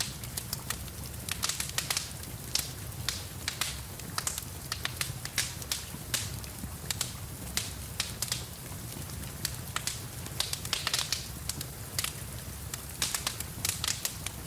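Wood fire crackling in a fireplace, many sharp irregular pops, over a steady hiss of rain and a low rumble.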